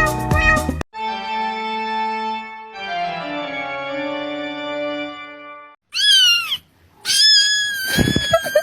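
Lively music cuts off under a second in, followed by about five seconds of held organ chords that change once partway. Near the end a short cat meow, then a longer one.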